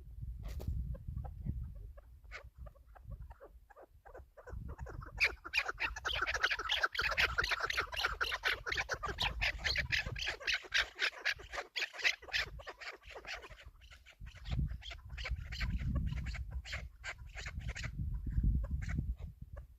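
Chukar partridge calling: a long run of rapid clucking notes that starts about five seconds in, is densest for about eight seconds, then goes on more sparsely.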